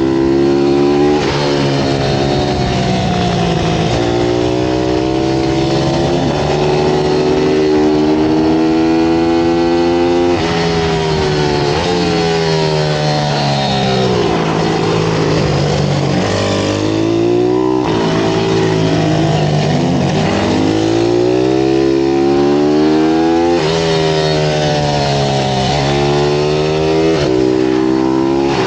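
Small single-cylinder pit bike engines racing: the revs climb, drop at each shift and climb again, over and over. Around the middle several bikes' engines overlap at different pitches.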